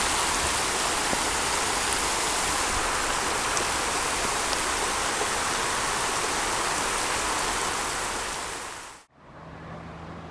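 Heavy downpour: rain falling hard on a lake and the leaves of a tree, a dense, steady hiss that fades out about nine seconds in. After a moment of silence comes a much quieter outdoor background.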